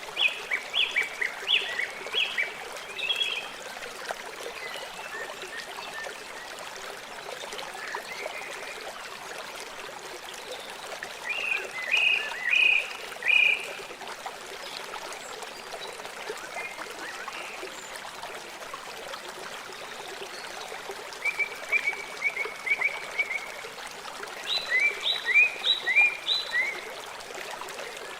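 River water flowing with a steady rush, over which four short runs of quick, high chirps ring out: one at the start, one around the middle, and two close together near the end.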